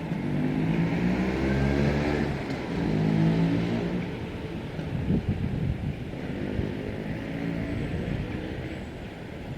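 Motor vehicle engine noise, with engine pitch rising and falling over a few seconds at a time, likely passing road traffic.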